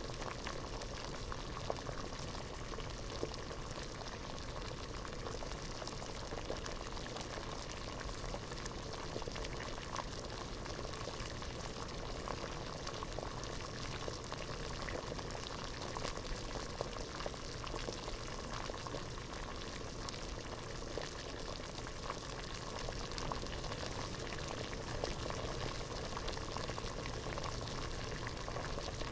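Water boiling hard in a pot: a steady, continuous bubbling made up of many tiny pops and crackles.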